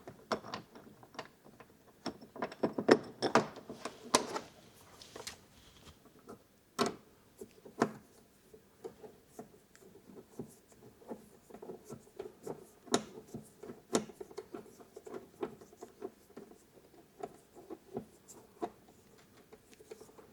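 Parts of a motorhome door security lock being handled and fitted together by hand: irregular small clicks, taps and rattles, with a few sharper knocks.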